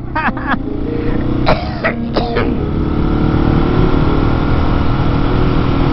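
Husqvarna 701 supermoto's single-cylinder engine running while riding, settling to a steady speed after about two and a half seconds, heard from the rider's own camera.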